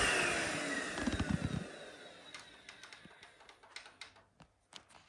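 Vacuum cleaner motor winding down after switch-off: its whine falls in pitch and fades over about two seconds. Faint scattered clicks and taps follow.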